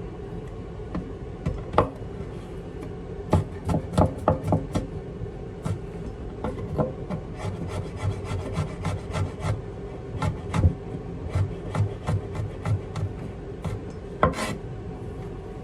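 Irregular light knocks and clicks with rubbing and scraping, as of things handled on a wooden surface, over a steady low hum.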